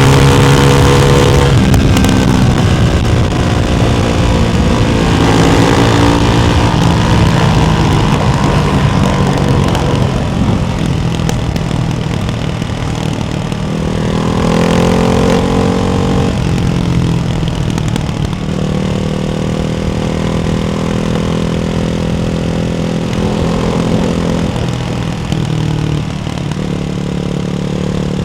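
Ducati Hypermotard 698's single-cylinder engine through a baffled Termignoni exhaust, its revs climbing and dropping back again and again at varying RPM.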